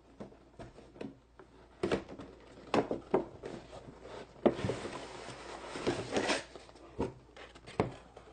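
Hands handling a plastic toy truck and its small toy capsules: scattered clicks and knocks of plastic, with a stretch of rustling about halfway through.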